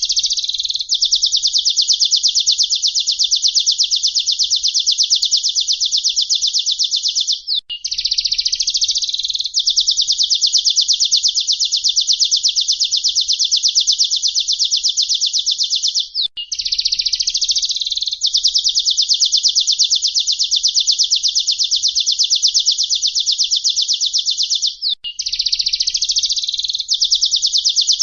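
Looped songbird-song recording used as a 'masteran' tutor track for training cage birds. It plays a loud, high-pitched rapid trill held for about seven seconds, opened by a short varied phrase. The same loop restarts after brief breaks about every eight and a half seconds.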